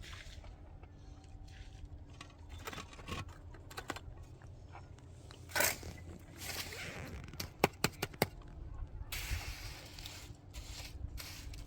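Scraping and handling noises with scattered sharp knocks. A short loud scrape comes about halfway through, followed by a quick run of clicks and then a longer rasping stretch.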